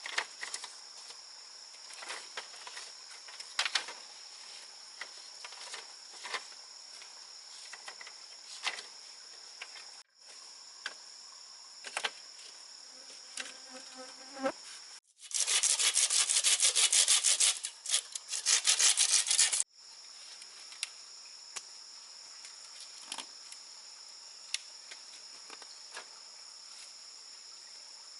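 A hand saw cutting through wood in fast, even strokes for about four seconds midway, the loudest sound here. Around it, steady high insect chirring goes on, with scattered knocks and taps of wood.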